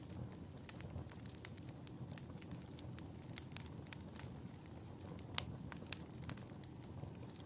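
Wood fire crackling in a fireplace: a steady low rumble of burning with many scattered sharp pops, the loudest about five and a half seconds in.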